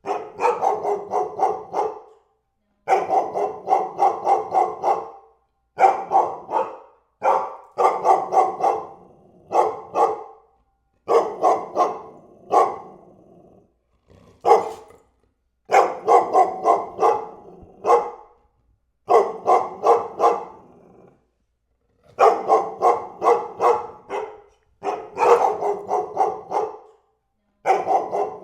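A dog barking over and over in quick volleys of several barks each, with pauses of about a second between volleys.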